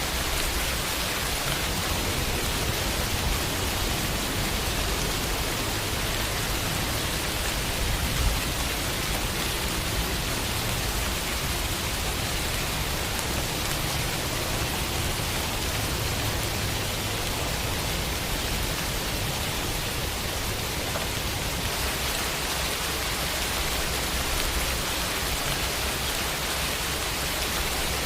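Steady rain falling on a window, an even hiss with no letup.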